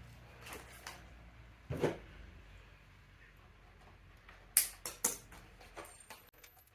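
Scattered clicks and knocks of bike parts and tools being handled during front-wheel assembly, the loudest cluster about four and a half seconds in, over a faint low hum.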